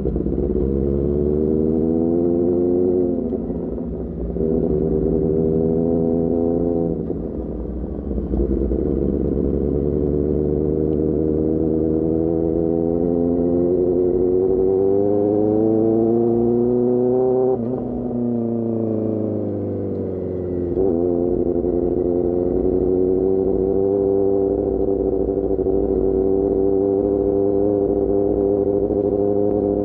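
Sport motorcycle engine breathing through an Austin Racing GP1R exhaust, pulling through the gears: the pitch climbs and drops back at two quick upshifts, then climbs in one long pull. The revs then fall away as it slows, and after another shift it settles to a steady cruise.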